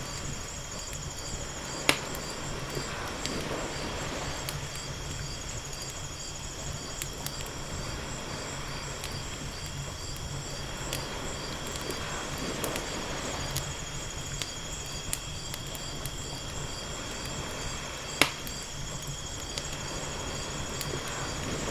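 Wood fire crackling with scattered small ticks and two sharp pops, about two seconds in and near the end, over gentle ocean waves washing in slow swells every few seconds. Insects chirp steadily in the background in a fine, even pulse.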